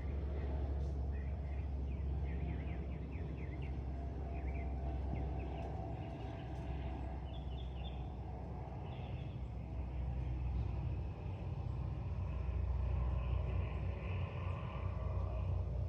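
Steady low vehicle rumble, with birds chirping now and then over it.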